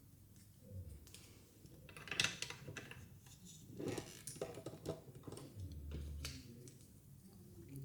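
Small plastic toy pieces and packaging being handled: crinkling rustles with light clicks and taps, the loudest cluster about two seconds in.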